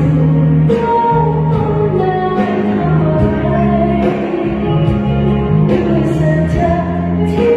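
A song with a singer over instrumental backing: held bass notes and a steady beat.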